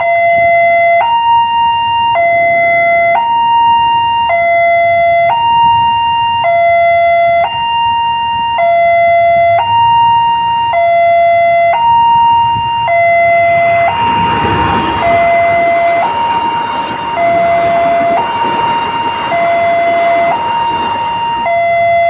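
Railway level-crossing warning alarm sounding a two-tone electronic signal, alternating a lower and a higher tone about once a second, the warning that a train is approaching and the crossing is closed. From about two-thirds of the way in, a loud rushing rumble joins it, a train passing over the crossing.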